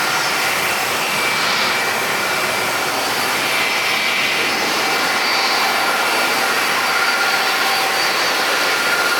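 Jet airliner engines running steadily on the apron: an even rushing noise with several high, steady whining tones over it.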